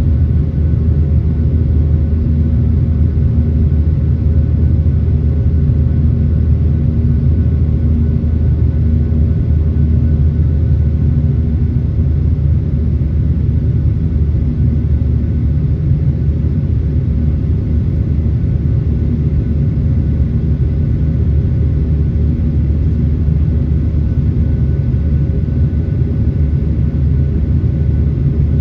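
Boeing 737-800's CFM56 jet engines running steadily, heard inside the passenger cabin as an even low rumble with a faint hum of steady tones above it.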